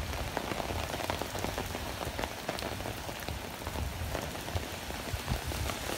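Heavy wind-blown thunderstorm rain, a dense hiss with many sharp ticks of drops striking close by, most likely on the umbrella overhead. Uneven low rumbles come and go, likely gusts on the microphone.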